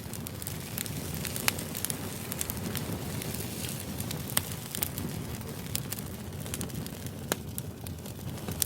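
Split firewood burning in a fire pit brazier: a steady low rush of flame with frequent irregular crackles and pops. A few sharper snaps stand out, about one and a half seconds in, near the middle and near the end.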